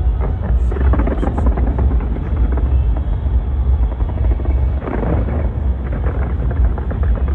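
Fireworks barrage: a dense, rapid run of bangs and crackles over a deep, continuous rumble, thickest about five seconds in.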